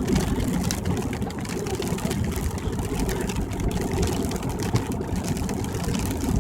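Steady road and engine noise inside a car's cabin at highway speed, a low, even rumble.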